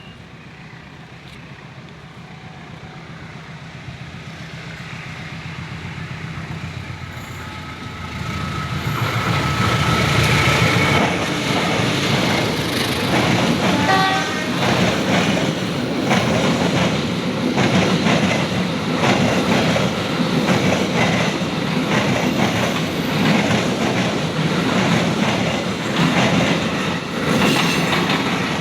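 Train growing steadily louder over about eight seconds, then running loud with a continuous rapid clatter of steel wheels over the rails.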